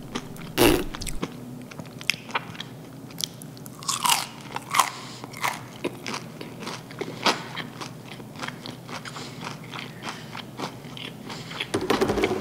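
Crisp bites and chewing of double-fried chicken karaage in a potato-starch and flour coating: a string of sharp crunches, the loudest about half a second in.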